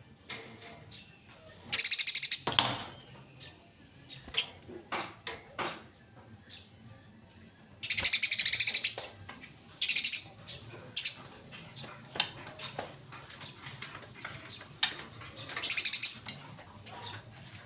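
Eurasian tree sparrows chirping, broken by loud, fast chattering rattles in four short bursts of a second or less, the agitated 'fighting' chatter of the species, with scattered single chirps between them.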